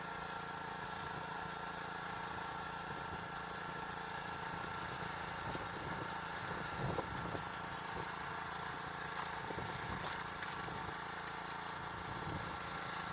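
An engine running steadily at idle with an even hum, with a few faint knocks in the middle.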